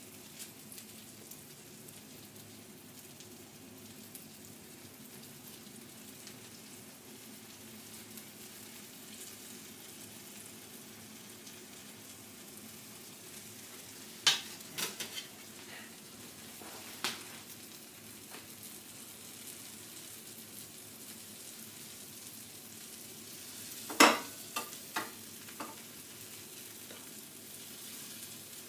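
Grilled cheese sandwich frying in melted butter in a frying pan, a steady sizzle. A few sharp knocks cut through it around the middle and again near the end.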